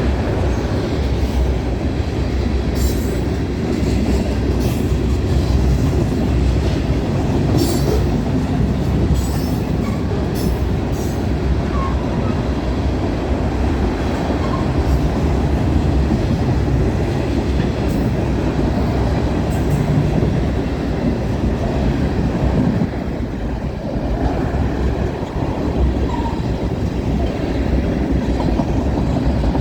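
Freight cars of a long CN train rolling past on the rails, a steady loud rumble of wheels and cars. A few brief sharp high-pitched sounds come between about three and eleven seconds in.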